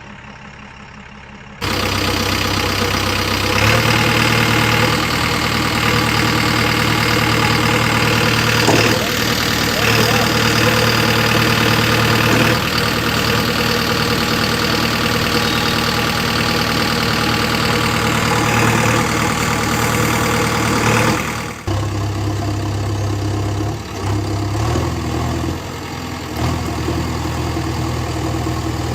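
Vehicle engine running steadily at idle. It starts abruptly a couple of seconds in and changes abruptly about two-thirds of the way through.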